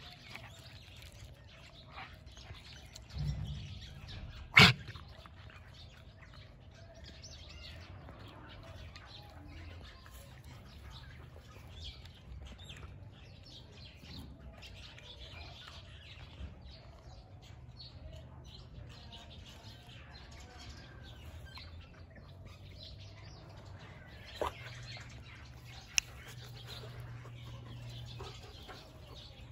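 Small birds chirping intermittently over a faint low hum, with one loud sharp click about four and a half seconds in and two fainter clicks near the end.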